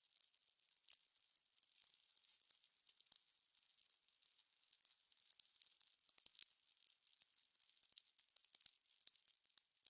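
Fire crackling: many small, irregular pops and snaps over a soft hiss, heard faintly.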